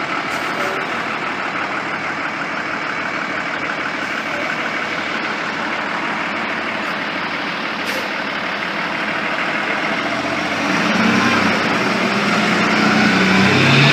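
Ford F650 truck's diesel engine running with steady road noise; about ten seconds in it gets louder and a low engine note rises out of the noise.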